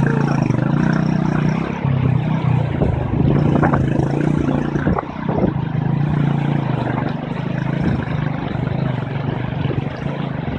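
Motorcycle engine running steadily under way, with a few short knocks and rattles about four to five seconds in.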